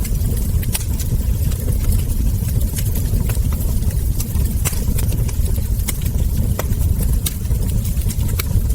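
Wood fire burning, with a steady low rumble and frequent sharp crackles and ember pops at irregular moments.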